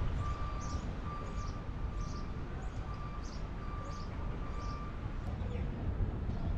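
A small bird chirping over and over, short high calls about every half second, over a steady low rumble, with a faint thin tone that comes and goes.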